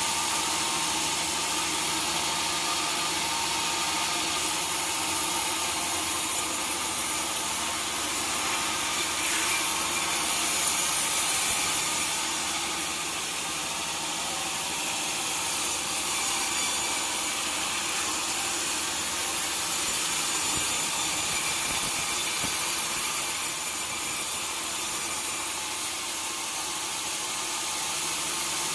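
Sawmill blade cutting steadily through a large log, a continuous hissing rasp over the hum of the mill's machinery.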